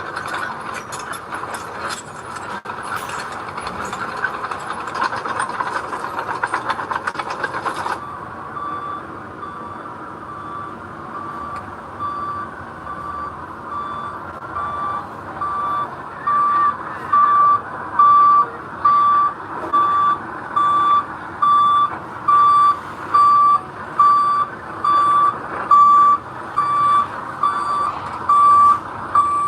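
Heavy construction machinery running with a dense rattling clatter. After an abrupt change about eight seconds in, a reversing alarm beeps about once a second over an engine, and the beeps grow louder about halfway through.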